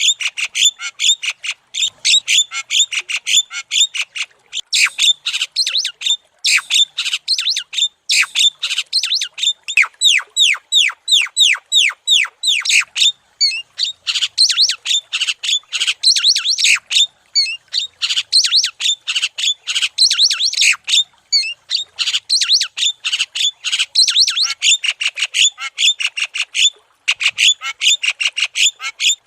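Javan myna (jalak kebo) calling continuously in full song: a fast, unbroken run of harsh, chattering, downward-sweeping notes, several a second, with a brief break near the end.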